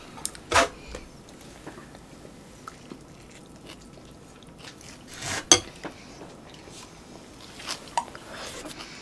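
Close-miked mouth sounds of biting and chewing soft food, North Korean tofu rice and artificial-meat rice dipped in sauce. A few short sharp smacks stand out, the loudest about half a second in and about five and a half seconds in.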